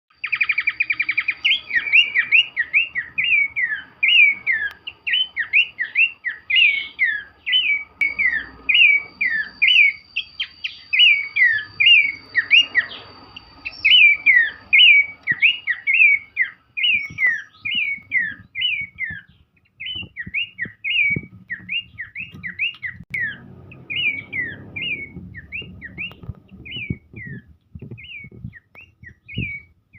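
Pelanduk semak (a babbler) singing a long, unbroken run of short, down-slurred whistled notes, about two a second, thinning out near the end. Faint low taps can be heard in the second half.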